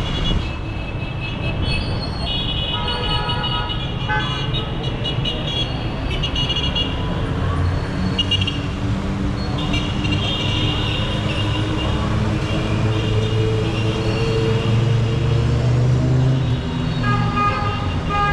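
Heavy city street traffic: engines running with a steady low rumble, and car horns honking several times at different pitches, one over another near the start and again near the end.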